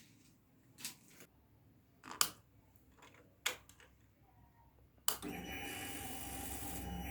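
A few sharp clicks, then a steady electric whirr that starts suddenly about five seconds in and stops after about two and a half seconds. It fits the Honda CBR250R's fuel pump priming when the ignition is switched on, before the engine is started.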